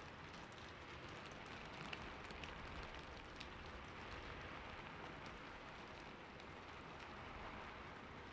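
Steady rain falling on a roof, an even hiss with scattered faint drop ticks.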